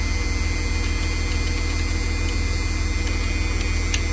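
Diesel school bus engine idling steadily, a low even rumble, with a few faint ticks near the end.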